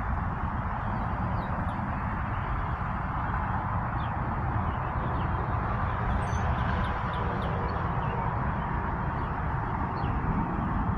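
Small birds chirping now and then over a steady outdoor rumble and hiss.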